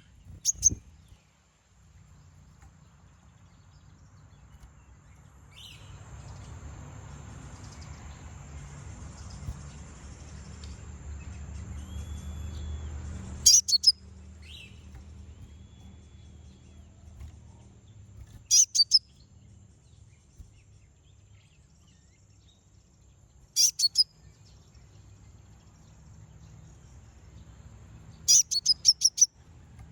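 Konin (kolibri ninja sunbird) giving short bursts of sharp, very high chirps, about five bursts spaced several seconds apart, the last a quick run of notes. A faint hum and a stretch of hiss sit underneath.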